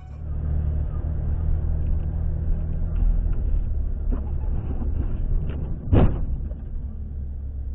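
Car engine and road noise, a steady low rumble, with one brief loud thump about six seconds in.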